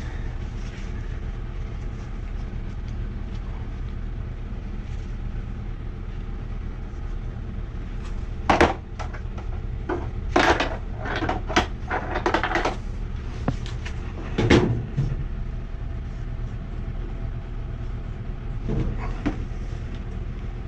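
Metal gas pipe fittings clanking and clinking as they are handled and set down, a cluster of sharp knocks between about 8 and 15 seconds in, the loudest near the start and the end of that stretch. A steady low hum runs underneath.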